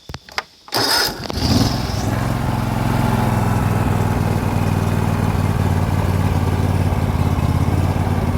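John Deere LT180 riding mower's 17 hp V-twin engine being cold-started on choke: a few clicks, then a brief crank, and the engine catches about a second in and settles into a steady run.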